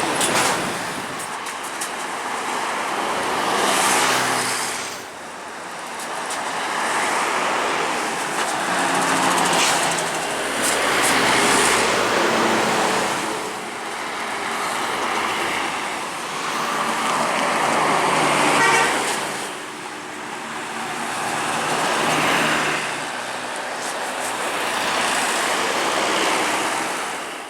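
Intercity buses passing one after another on a wet road: tyre hiss and engine noise swell and fade with each pass. A horn toots briefly about two-thirds of the way through.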